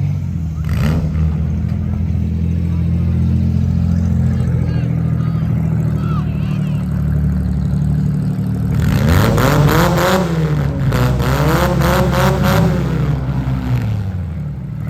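Demolition derby cars' engines running with a steady low drone; about nine seconds in, an engine is revved hard, rising and falling in pitch twice over roughly four seconds.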